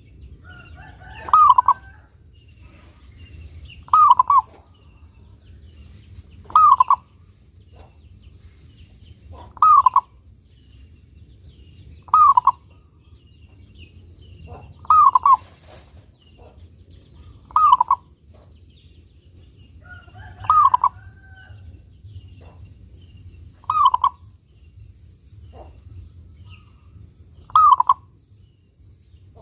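Zebra dove (perkutut) singing, a clear short cooing phrase repeated about ten times, every two to three seconds, each phrase dropping slightly in pitch. A faint low hum lies underneath.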